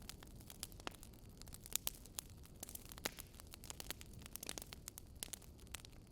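Wood fire burning: logs crackling and popping in quick irregular snaps over a low steady rumble, with two louder pops about two and three seconds in.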